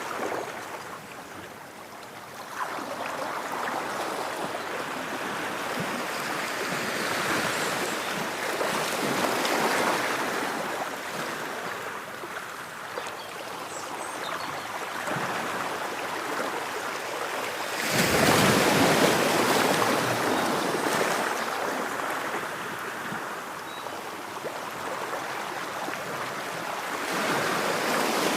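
Ocean waves breaking and washing up the shore in slow swells, the loudest one crashing about two-thirds of the way through.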